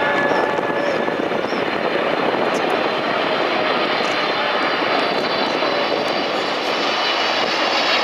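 Jet airliner engines, Boeing 777 twin-jet, giving a steady, even noise, with a thin high whine growing clearer over the second half.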